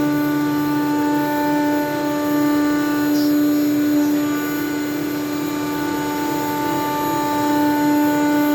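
ShopSabre CNC router spindle running at speed, a steady high whine with a noisy cutting bed, as the bit mills a sheet of StarBoard marine polymer. The upper part of the whine dips briefly about three seconds in.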